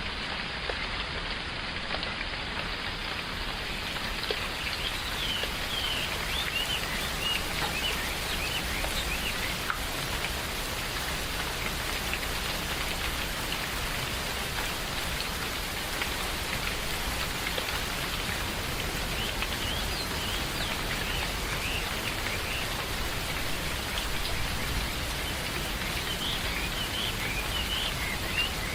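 Steady rain falling on forest foliage. Small birds chirp in short spells over it, a few seconds in, again past the middle, and near the end.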